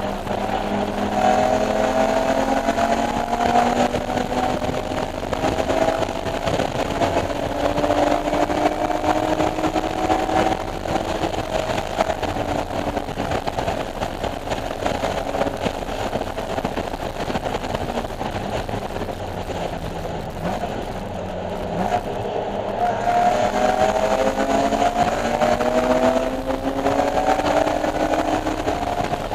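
BMW E46 M3's 3.2-litre straight-six at full throttle on a race track, its pitch climbing as the car accelerates. The engine eases off around two-thirds of the way through, then pulls and rises in pitch again near the end.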